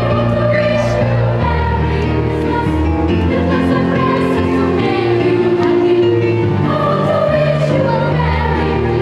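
Children's choir singing a Christmas carol in sustained, held notes over deep bass notes that change every second or two.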